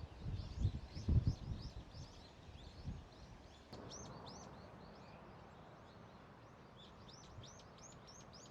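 Small birds chirping in quick, repeated short high notes, with a few low thuds in the first three seconds.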